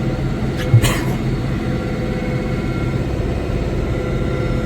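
John Deere 5085M diesel tractor running steadily under load, driving a rear-mounted PTO snowblower. A couple of short clicks sound about a second in.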